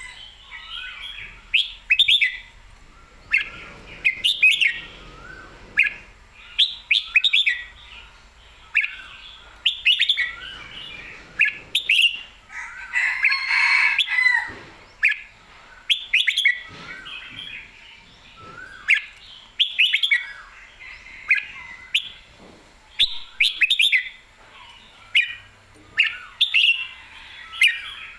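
Red-whiskered bulbul singing: short, clear whistled phrases repeated every second or two, with a fuller, denser run of song about halfway through.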